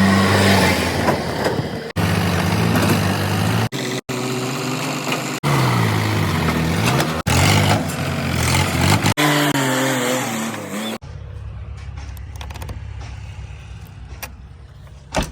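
Heavy-machinery engines revving, rising and falling in pitch, in a string of short clips that cut off abruptly every second or two; about eleven seconds in it gives way to a quieter, steady engine running.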